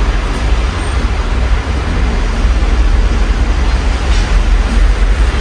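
Steady rain heard through an open window, mixed with the low rumble of city traffic.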